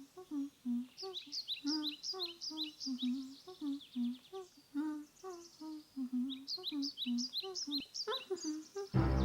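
A person humming a simple tune in short notes, about two or three a second, with high bird-like chirps over it. Loud music cuts in near the end.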